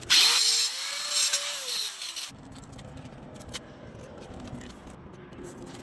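A small power tool runs for about two seconds with a hissing sound, its pitch rising and then falling as it speeds up and slows down. Faint clicks follow.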